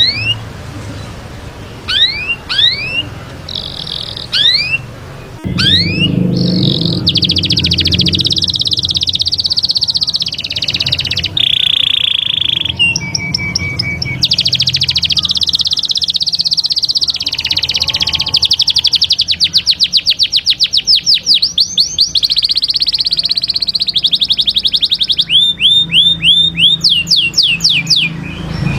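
Canary singing: a few quick rising chirps, then long, fast trills and rolls, ending in a run of rapid repeated rising notes.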